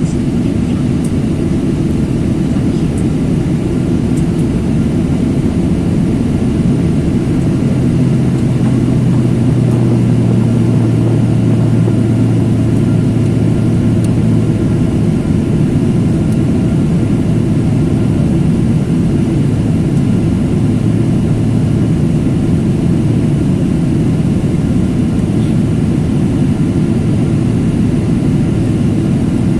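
Steady, loud jet airliner cabin noise: a dense low rush of engines and airflow, with a steady low hum coming through for several seconds about a third of the way in.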